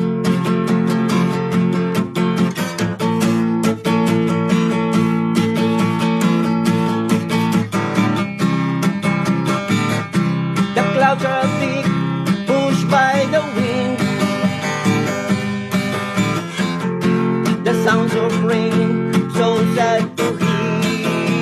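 Acoustic guitar strummed steadily in chords: an instrumental passage of an original song, with no singing.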